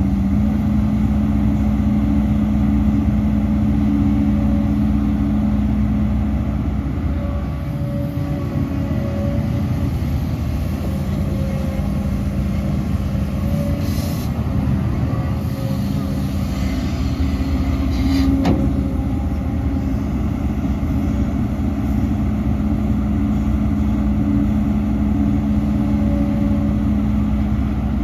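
Heavy diesel earthmoving machinery running steadily under load, with a short hiss about halfway through and a sharp tick a few seconds later.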